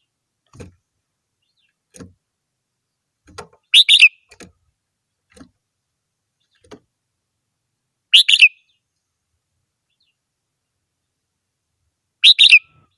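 Red-whiskered bulbul singing: three short, loud, bright song phrases about four seconds apart. Faint soft taps come in between.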